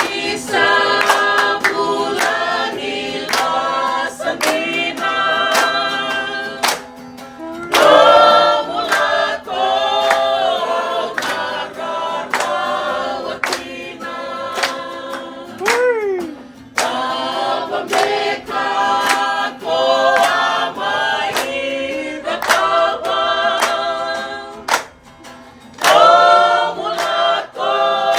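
A group of voices singing together in harmony, with a sharp regular beat under the singing.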